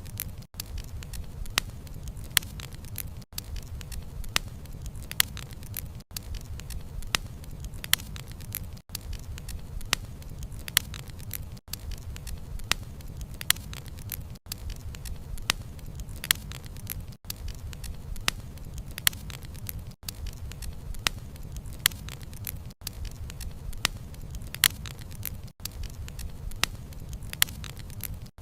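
Wood campfire burning: a low steady rumble of flame with sharp, irregular crackles and pops from the burning logs. A brief gap in the sound recurs about every three seconds.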